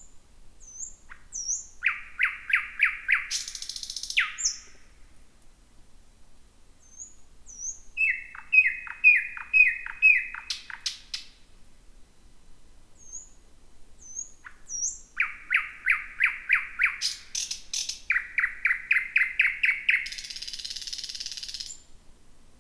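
Thrush nightingale singing three song phrases. Each opens with a few high, thin notes and runs into a fast series of loud repeated notes, about six a second. The first and last phrases end in a dry, buzzing rattle, the last one longer.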